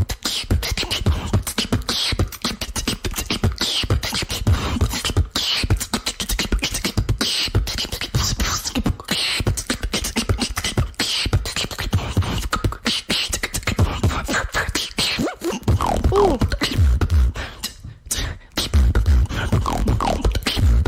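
A female beatboxer performing a fast beatbox routine: rapid mouth-made drum hits over a deep bass, with a few short pitched vocal glides. There is a brief break a few seconds before the end, then the beat comes back in.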